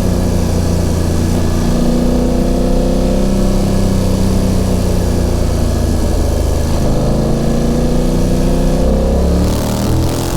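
BMW F900XR motorcycle's parallel-twin engine and exhaust running under way, its pitch sagging slowly for most of the stretch, then rising as it accelerates near the end, when wind noise also comes up.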